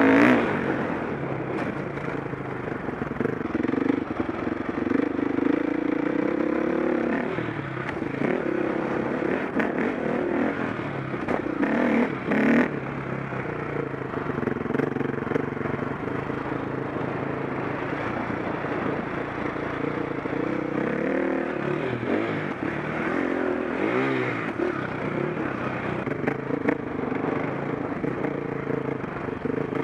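KTM 525 SX four-stroke single-cylinder motocross engine revving up and falling off again and again as the bike is ridden round the track, with a few sharp knocks, the loudest about twelve seconds in.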